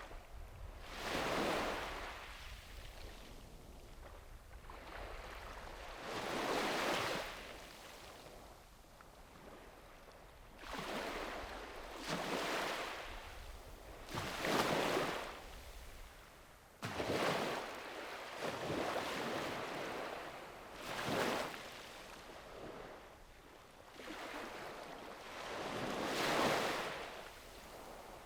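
Small sea waves breaking and washing up a beach, each swelling into a hiss and fading, one every few seconds.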